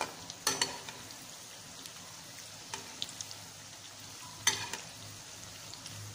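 Onion bhajis (gram-flour and onion fritters) sizzling steadily as they deep-fry in hot oil in a steel kadai. A spoon knocks against the pan a few times: at the very start, twice about half a second in, and once more about four and a half seconds in.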